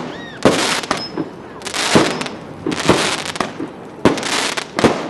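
Fireworks going off: a quick series of sharp bangs, about one a second, each trailing off in a short hiss.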